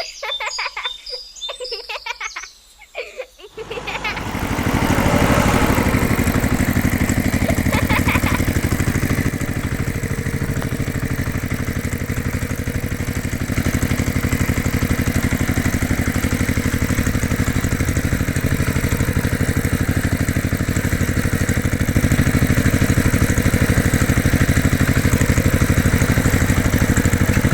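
An engine sets in about four seconds in and then runs steadily at a constant pitch, with a low, even throb. Before it come a few short, chirpy pitched sounds.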